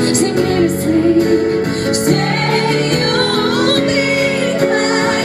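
Live acoustic pop performance: a woman singing long, wordless, wavering held notes and runs over sustained accompaniment chords.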